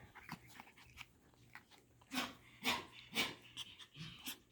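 Parson Russell Terrier puppies playing: faint chewing and scuffling clicks, then three short puppy yaps about half a second apart, two to three seconds in.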